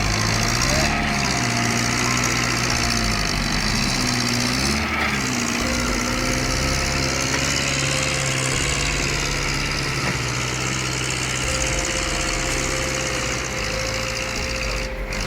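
Tractor engine running steadily, its pitch rising and falling a few times in the first five seconds and then holding fairly even.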